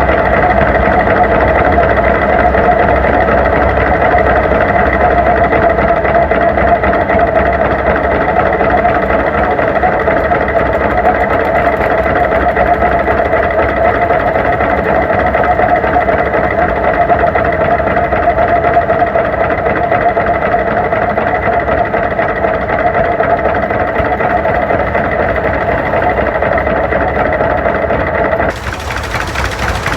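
1949 John Deere G tractor's two-cylinder engine running steadily, close by. Near the end its sound dips briefly and a hiss comes in.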